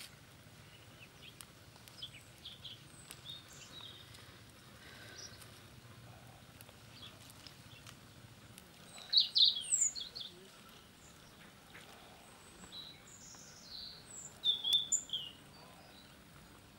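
Small birds chirping, with short high calls throughout and two louder bursts of calls about nine and fifteen seconds in.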